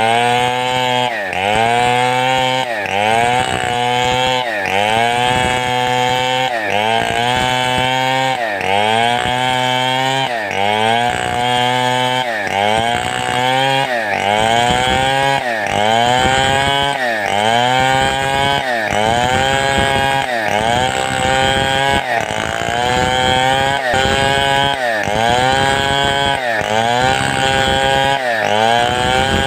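Large two-stroke Stihl 070-type chainsaw cutting wood with a rocking, swinging stroke: the engine pitch dips under load and climbs back about once a second in a steady rhythm.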